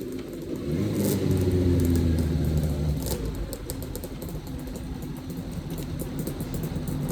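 Motorcycle engine running while riding, revving up for the first few seconds and then easing off to a lower, quieter pull.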